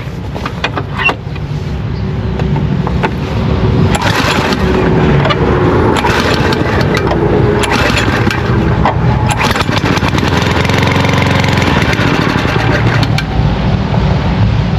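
Lawnmower's small petrol engine being started after priming, growing louder over the first few seconds and then running on steadily. It does not run right: water in the carburetor.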